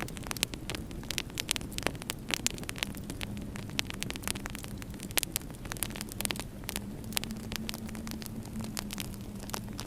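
Wood fire crackling in a fireplace: many sharp, irregular pops and snaps over a steady low rumble and faint hum.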